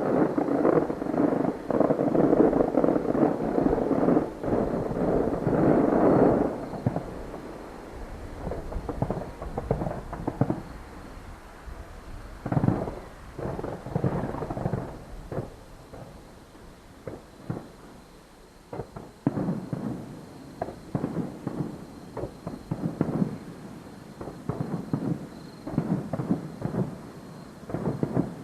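Aerial fireworks bursting: a dense, continuous barrage for about the first six seconds, then scattered booms and clusters of quick crackling bursts.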